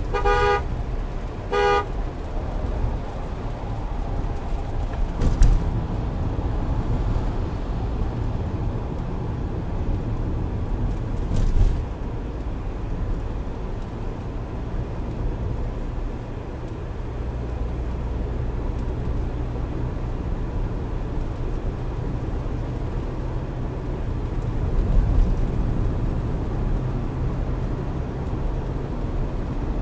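A vehicle horn gives two short blasts, then the steady low rumble of engine and tyres from a moving vehicle on the highway, heard from inside the cabin, with two dull thumps along the way.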